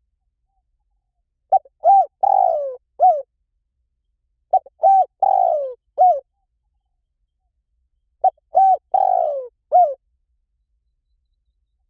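Spotted dove cooing: three phrases, each a short run of coos with a longer falling note in the middle, a few seconds apart.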